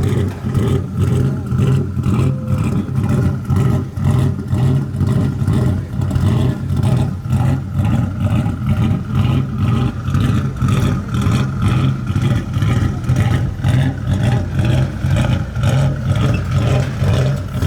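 Truck engine held at high, steady revs during a burnout, its sound pulsing rapidly.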